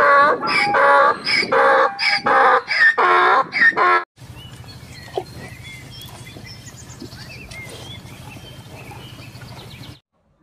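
A donkey braying: a run of loud, rapid hee-haw calls that stops about four seconds in. After it comes a much quieter steady low hum with faint chirps over it, lasting about six seconds.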